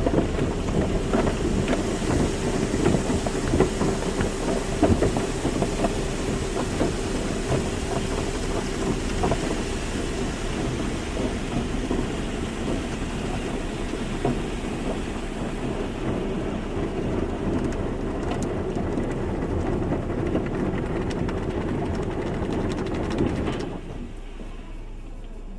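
Automatic car wash running: water spray pelting a car's body with a dense patter over a steady machine hum. The sound drops abruptly quieter about two seconds before the end.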